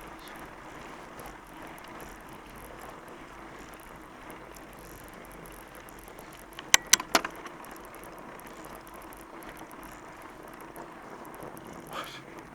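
Fat bike being ridden, with steady rolling noise from the wide tyres and drivetrain. About halfway through come three sharp clacks in quick succession, like the bike rattling over a bump, and a lighter one near the end.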